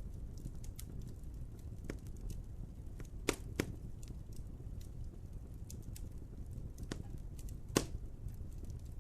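Wood fire crackling: a steady low rumble of burning logs with scattered sharp snaps, two stronger pops a little past three seconds in and the loudest one near the end.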